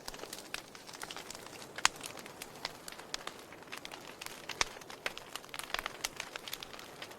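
Wood fire crackling in a fireplace: irregular sharp pops and snaps over a steady hiss, with louder pops about two seconds in and again past the middle.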